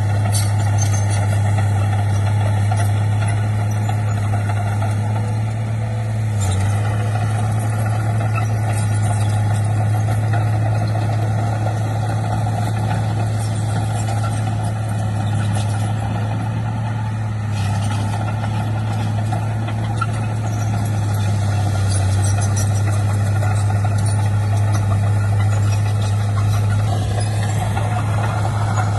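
Heavy diesel engine of earthmoving machinery running steadily with a strong low hum, easing slightly a couple of times.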